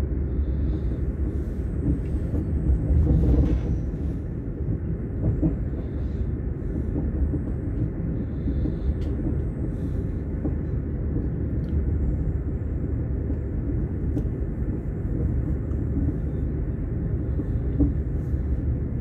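Steady low rumble of a moving passenger train, heard from inside the carriage, swelling briefly about three seconds in.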